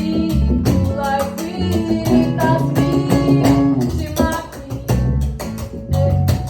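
Live acoustic music: a voice singing a melody over strummed acoustic guitar, with a steady low pulse beneath.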